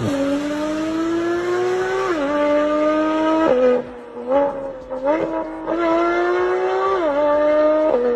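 Car engine and exhaust accelerating through the gears: the note climbs steadily in pitch and drops sharply at each upshift, several times over, with a brief lull and a few short revs in the middle.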